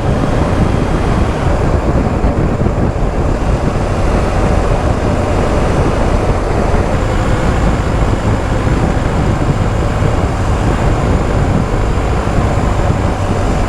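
BMW R1250 GS Adventure motorcycle on the move: a steady rush of wind on the microphone, with engine and road noise beneath it.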